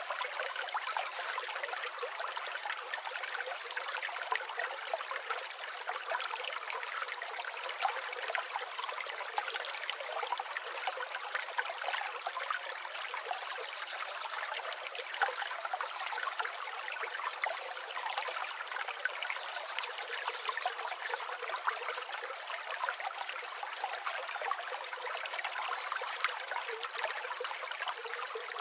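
River water flowing and babbling steadily, a thin rushing with no low rumble.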